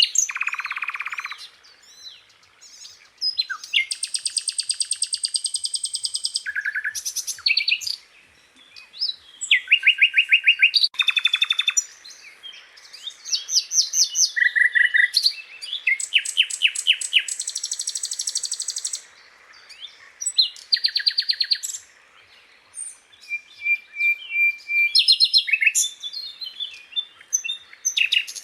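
Sikatan londo flycatcher singing a varied song: a run of rapid trills, buzzy phrases and clear whistled notes, each phrase lasting from a fraction of a second to about three seconds, with short pauses between.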